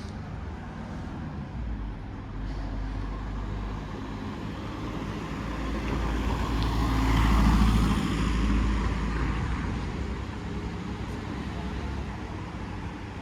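A motor vehicle passing close by, its engine rumble and tyre noise swelling to a peak about halfway through and then fading, over a steady background of traffic.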